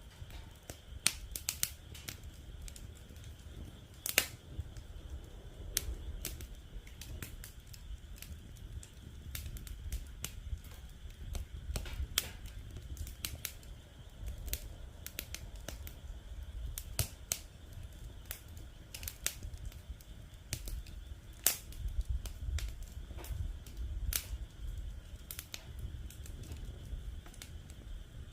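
Wood fire crackling in a fire pit stand: irregular sharp snaps and pops, a few of them louder, over a low rumble and a faint steady high-pitched drone.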